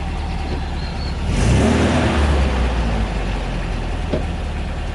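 Classic MG sports car's engine running at idle, revved briefly about a second and a half in, then settling back.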